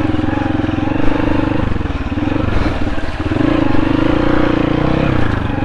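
Off-road motorcycle engine running at low speed, its revs dipping and picking up again as the throttle is worked.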